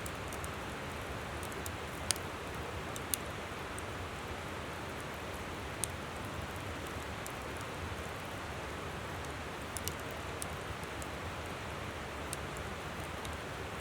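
Steady rush of a flowing river with a wood campfire crackling over it, a few sharp pops standing out.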